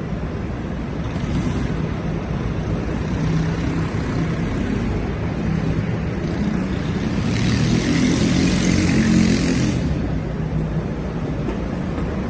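City street traffic: vehicle engines running in a steady low rumble, with a hiss about seven seconds in that lasts a couple of seconds.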